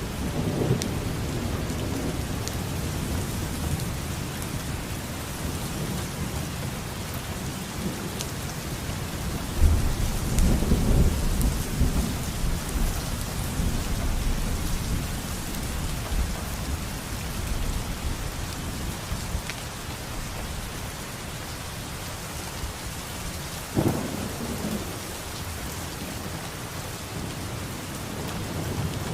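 Steady rain falling, with thunder: a low rumble at the start, a louder, longer roll of thunder about ten seconds in, and a sudden sharp crack of thunder later on.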